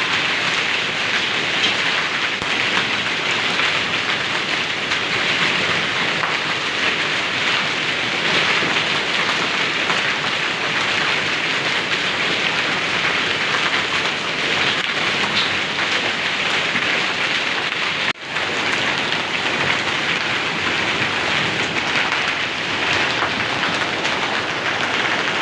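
Hailstorm with heavy rain pelting down in a steady, dense patter that cuts out for an instant about 18 seconds in.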